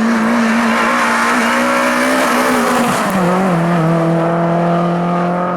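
Hill-climb race car engine running hard at high revs, holding a steady pitch, then dropping to a lower pitch about three seconds in as the car goes past.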